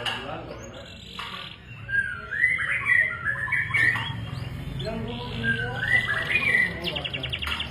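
Domestic canary singing a long, varied song: warbled phrases gliding up and down, a buzzy note about a second in, and a rapid trill near the end.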